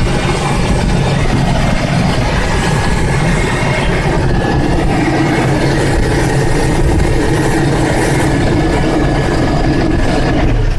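A Toyota Kijang LGX's engine running steadily at idle.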